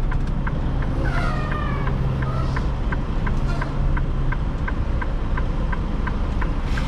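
Freightliner semi-truck's engine running, heard from inside the cab as a steady low hum, with a steady light ticking about three times a second throughout. A brief wavering high-pitched sound comes about a second in.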